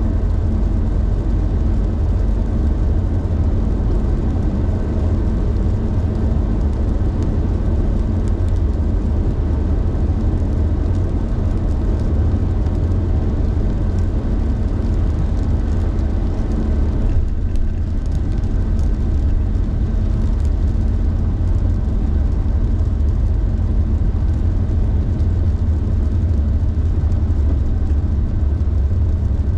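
Car driving at steady speed: a loud, even low drone of tyres and engine with road hiss above it, which thins briefly about two-thirds of the way through.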